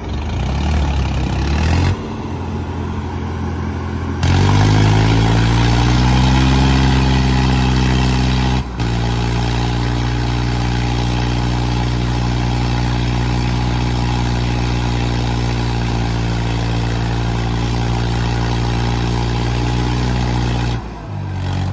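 Tractor diesel engines working hard in a tug-of-war pull. Their revs climb about four seconds in and then hold steady and high, with a few abrupt breaks in the sound.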